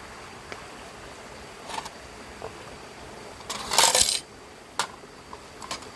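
Metal cookware clinking and rattling, with a short loud clatter a little under four seconds in and scattered lighter clinks over a steady hiss.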